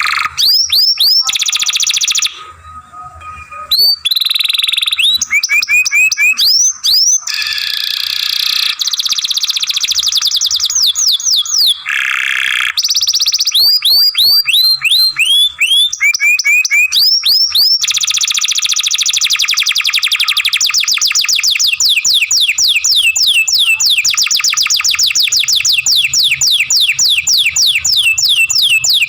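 Canary singing: phrases of quick, high, downward-slurred whistled notes and trills, with the last third or so one long, fast trill of repeated notes.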